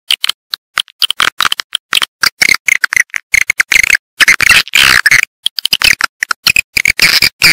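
Edible-nest swiftlets twittering in a recorded lure call: a fast run of short, high chirps broken by brief silent gaps. It is the kind of call track played in swiftlet houses to draw the birds in to roost and nest.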